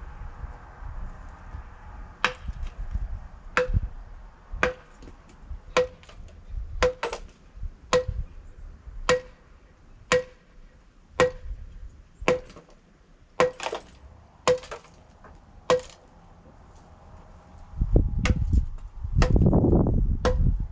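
Hammer striking a concrete block to knock out a scored-off corner piece: about fifteen sharp blows, roughly one a second, each with a short metallic ring. Near the end the blows stop and a louder low rumbling noise comes in.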